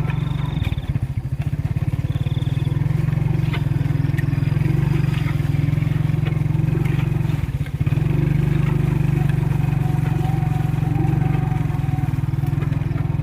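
Motorcycle engine running steadily while riding over a muddy dirt track, with small rattles and clicks. The engine note eases briefly twice, about a second in and just past the middle.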